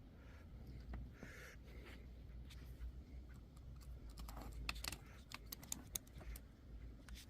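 Faint light clicks and taps of small hard parts being handled, thickest in a quick cluster past the middle, over a low steady hum.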